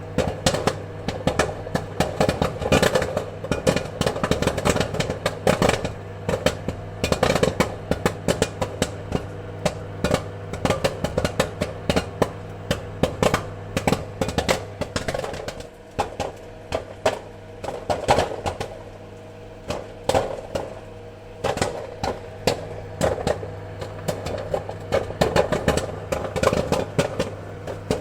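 Popcorn kernels popping in quick, irregular pops over a steady hum; the popping thins out for a few seconds past the middle, then picks up again.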